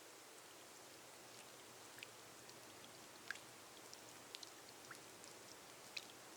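Faint, steady rain on a glass roof: an even hiss with scattered single drops ticking sharply against the glass, a few a second at irregular intervals.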